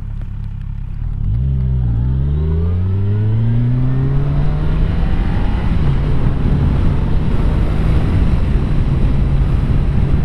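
Motorcycle engine pulling away and accelerating from about a second in, its pitch rising with a brief drop near two seconds at a gear change. It then levels off and runs steadily, with another short dip around six seconds.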